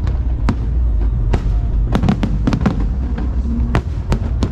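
Aerial fireworks display: a string of sharp bangs and cracks, about ten, bunched together around two seconds in, over a continuous low rumble of the ongoing show.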